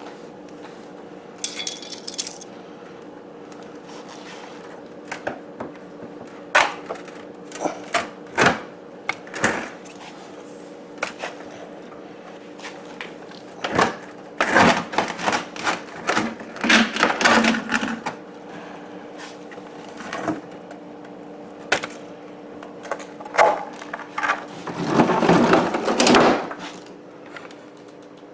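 Ice buildup being knocked and broken out of a refrigerator freezer that does not seal. Scattered sharp knocks and cracks, a busy run of them in the middle and a louder rattling burst near the end, over a steady low hum.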